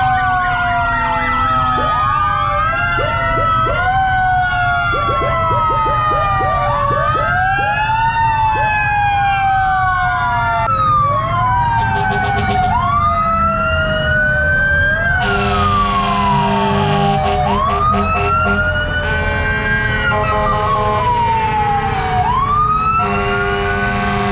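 Several fire truck sirens sounding at once: electronic wails rising and falling over one another, a stretch of quick yelps, and a siren whose pitch slowly falls. About two-thirds of the way through, long air-horn blasts join in, three of them.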